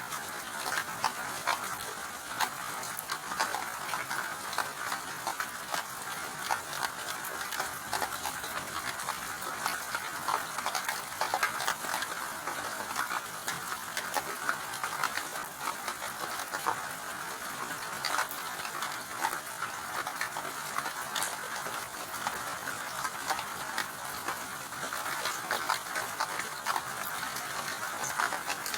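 Steady rain with a dense patter of individual drops ticking on a surface.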